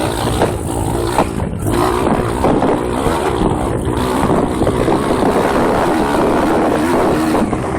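Single-cylinder four-stroke pit bike engine being ridden off-road, its revs rising and falling constantly, with wind buffeting the microphone.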